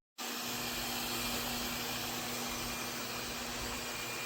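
Laresar robot vacuum's self-emptying station running its suction motor to empty the robot's dust bin: a steady, even rushing noise with a steady hum under it, starting abruptly just after the beginning.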